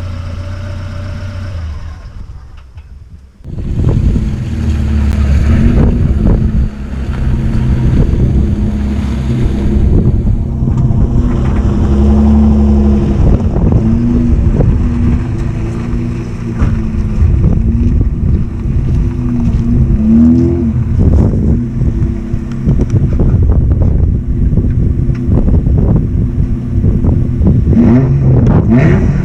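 1995 Ford Probe's 2.5-litre KL-DE V6 running loud through a poor exhaust. It drops off briefly about three seconds in, then revs up and down hard with a rapid run of crackles and pops, the backfire of its lacking exhaust.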